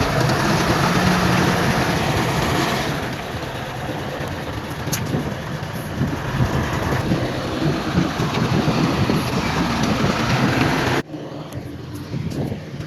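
Heavy diesel earthmoving machinery running with a loud, rough, steady engine drone. About eleven seconds in, the sound cuts abruptly to a quieter machine sound.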